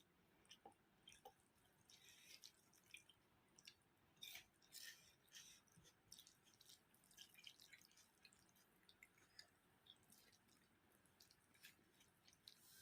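Faint, irregular wet clicks and smacks of someone chewing and eating curry with rice.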